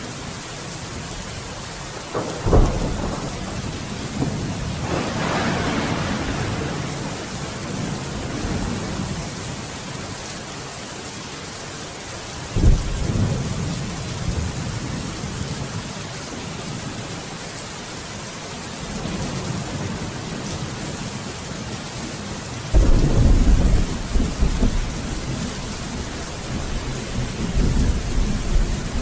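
Steady rain falling through a thunderstorm, with several thunderclaps: a sharp crack a couple of seconds in, a long rumble soon after, another sharp crack near the middle, and the loudest, rolling peal of thunder in the last few seconds.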